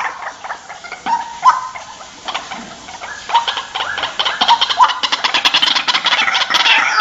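White-breasted waterhen calling: short clipped notes in the first half, then a fast rattling series of pulses that quickens and grows louder through the second half.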